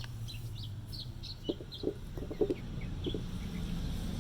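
Birds calling: short high chirps throughout, with a run of short low clucking notes in the middle, over a low steady hum.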